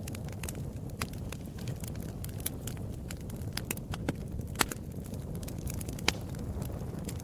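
Wood fire in a fireplace crackling, with irregular sharp pops and snaps over a steady low rumble of burning logs; the loudest pops come about four and a half and six seconds in.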